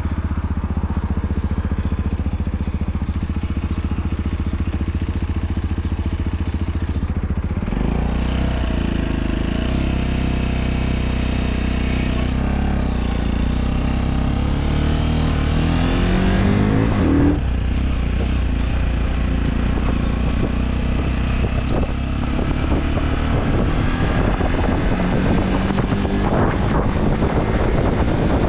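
Motorcycle engine idling steadily, then about seven seconds in pulling away, its pitch rising as it accelerates. A little past halfway the pitch drops back at a gear change, and it runs on under way.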